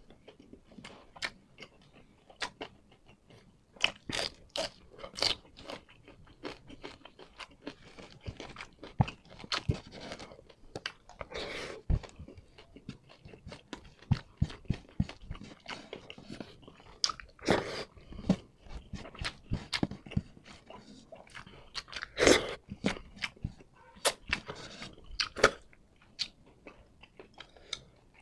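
Close-up eating sounds of ginataang labong (bamboo shoots, snails and corn in coconut milk) eaten by hand: chewing with irregular wet clicks and smacks.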